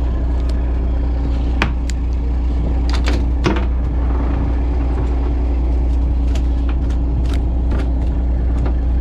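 Fishing boat's engine running steadily with a deep low hum, with a scattered handful of sharp clicks and knocks over it.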